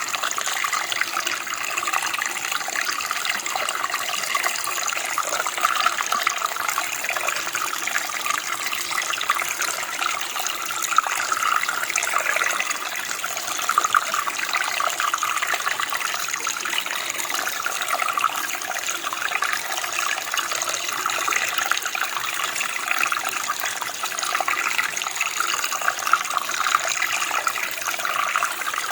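Running water flowing steadily, a dense, even splashing rush with most of its sound in the upper-middle and high range.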